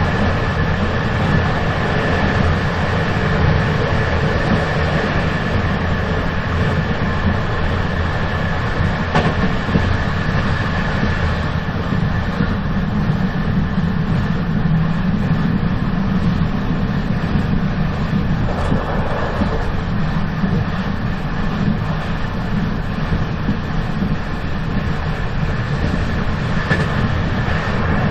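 Moving train running steadily: a continuous low rumble with a thin steady high whine above it, and one brief click about nine seconds in.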